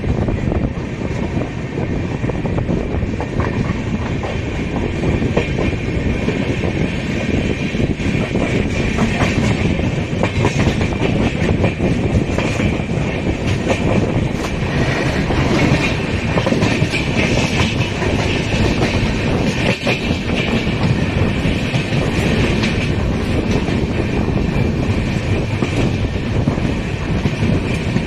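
A passenger train's wheels clattering over the rails as it pulls out of a station and picks up speed, heard from on board the coach.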